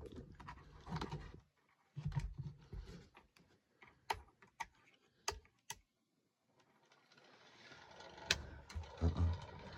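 Scattered sharp clicks and light knocks from a small electric space heater being plugged in and switched on, with the loudest click about eight seconds in.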